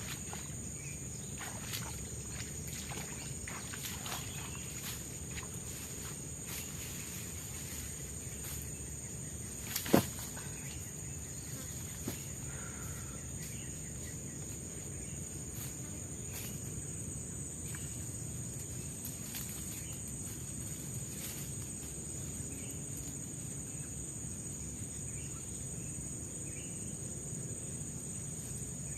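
Steady high-pitched drone of forest insects, with scattered small clicks and knocks and one sharp, much louder knock about ten seconds in.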